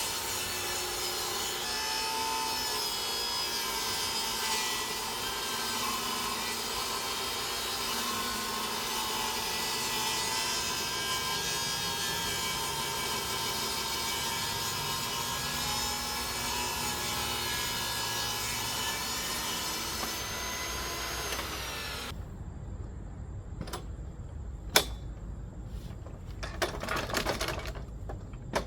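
Power saw with a steady motor whine cutting through a pressure-treated 2x4, running for about 22 seconds and then stopping abruptly. A few knocks and a short clatter of wood follow, the loudest about 25 seconds in.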